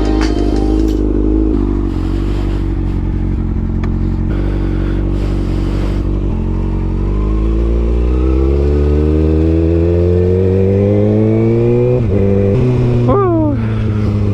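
Sport bike engine heard through a helmet mic: it runs at a steady pitch, then accelerates with the pitch rising for several seconds, and drops suddenly near the end as the rider shifts up before pulling again.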